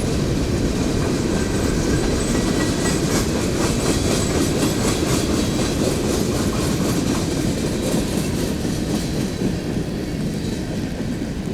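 A train's cars rolling past, a steady rumble of steel wheels on rail with clickety-clack over the rail joints, easing slightly near the end.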